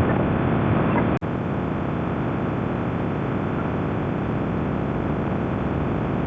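Suzuki Bandit 1200S inline-four engine running at road speed under heavy wind rush on the microphone. The sound drops out for an instant about a second in.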